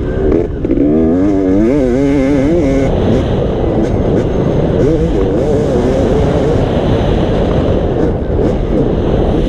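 Motocross dirt bike engine running, its pitch wavering up and down with the throttle for the first few seconds, over dense steady noise.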